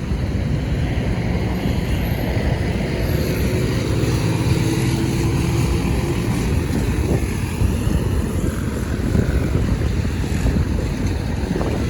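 Wind buffeting the microphone over a steady rumble of passing vehicles, with a faint engine tone coming through briefly a couple of seconds in.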